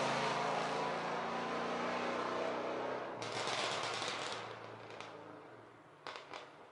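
Car engine running with a steady tone that fades away, followed by a few sharp pops near the end.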